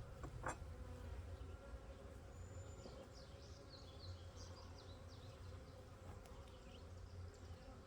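Honeybees buzzing steadily around an opened hive, a quiet hum, with a single short click about half a second in and faint high chirps later on.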